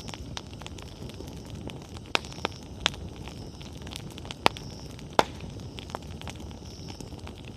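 Wood bonfire burning with a steady low rustle and scattered sharp crackles and pops; the two loudest pops come about four and a half and five seconds in.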